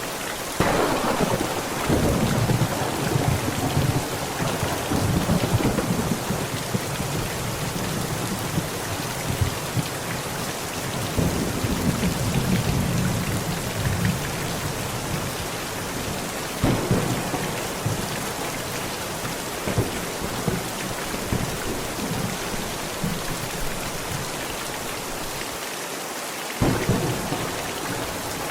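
Heavy rain pounding steadily on a tent, with thunder. A clap about half a second in rolls on as rumbling for many seconds, more rumbles follow midway, and another clap comes near the end.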